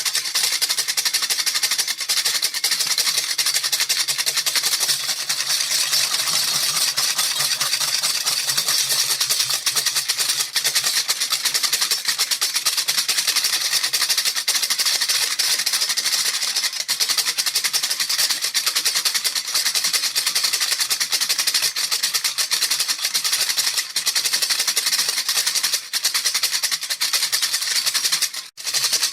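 Baby rattle shaken continuously in a fast, dense, even rattle, with a brief break near the end.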